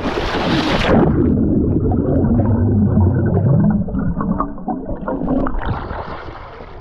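A splash as someone plunges into the sea, then muffled underwater gurgling and bubbling with the microphone submerged; the sound clears near the end as it comes back up.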